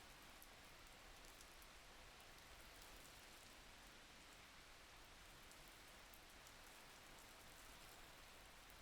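Soft, steady rain falling, an even hiss with a few faint drop ticks, played as a sleep background.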